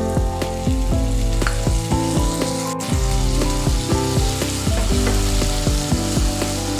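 Potato cubes and cut green beans sizzling in hot oil in a nonstick pan while a wooden spatula stirs them. The sizzle grows louder about a second and a half in. Background music with a steady beat plays throughout.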